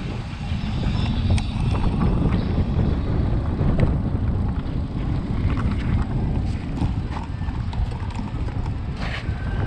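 Wind buffeting the microphone in a heavy, fluctuating low rumble, with scattered sharp clicks and knocks over it.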